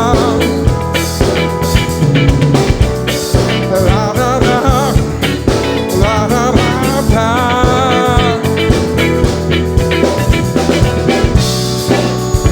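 Live soul-groove band playing: a drum kit keeps a steady beat under bass and a wavering lead melody.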